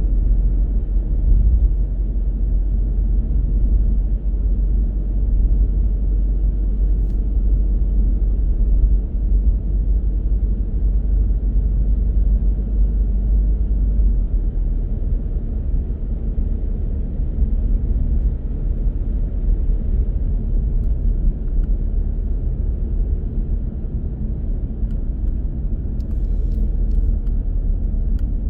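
A car driving along the road, with a steady low rumble of tyre and engine noise.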